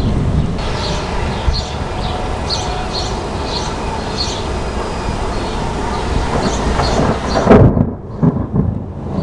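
Long rolling rumble of thunder. About two seconds before the end it gives way abruptly to gusts of wind buffeting the microphone.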